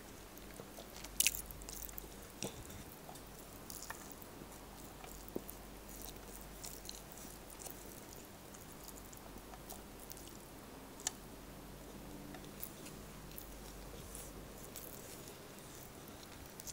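Close-up chewing and wet mouth and lip smacks of a person eating rice and beef caldereta with her fingers. Short, sharp smacks come irregularly, the loudest about a second in and another at about eleven seconds.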